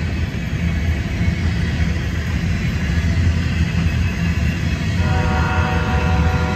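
Freight train of tank cars rolling past with a steady low rumble of wheels on rails. About five seconds in, a train horn sounds one steady chord for about two seconds.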